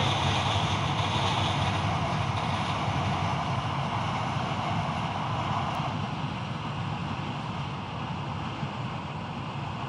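Passenger train running along the track, its noise fading steadily as it moves away.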